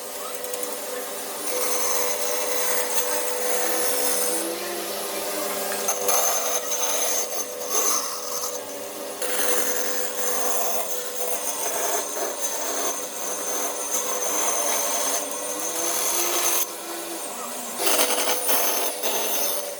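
A power tool working wood, with a steady motor whine under a rough grinding, rasping noise. The sound changes abruptly several times.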